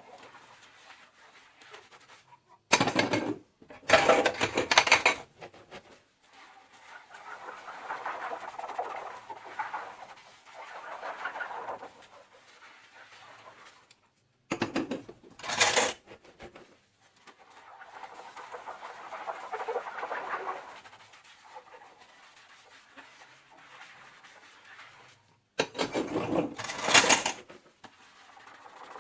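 Dishes being hand-washed in a kitchen sink: stretches of soapy sponge scrubbing, broken about three, fifteen and twenty-six seconds in by short, louder bursts of rinsing water.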